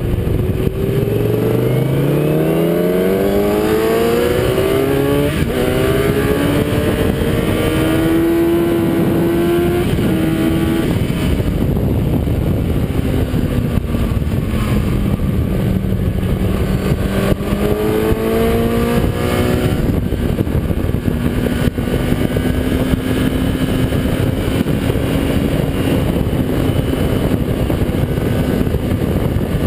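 Kawasaki ZX-10R's inline-four engine accelerating hard through the gears, its pitch climbing and dropping back at each upshift, over heavy wind noise on the onboard microphone. About halfway through the pitch falls and then climbs again, and near the end it holds steady at speed.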